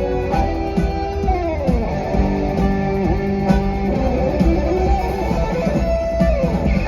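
Live rock music led by electric guitar, with sustained notes that slide down in pitch twice, once a little over a second in and again near the end, over a steady bass and beat.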